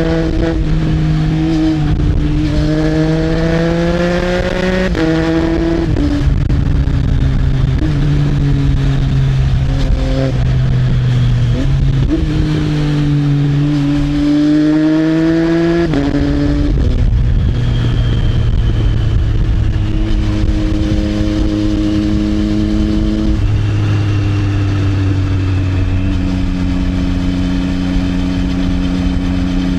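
Triumph Trident 660's 660 cc inline three-cylinder engine through an Arrow exhaust, pulling through the gears while riding. The pitch climbs under acceleration and jumps sharply up or down at each of several gear changes, then holds steadier while cruising in the later part.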